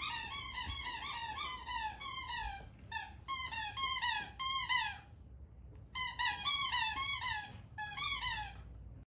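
A dog whining in quick runs of short, high, falling whines, about three a second. The whining pauses about five seconds in, then starts again.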